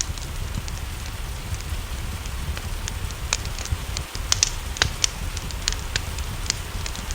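Wood fire crackling, with sharp irregular pops and snaps, over a steady hiss of rain and a low, even rumble.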